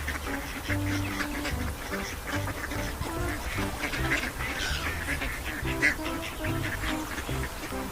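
Ducks quacking repeatedly.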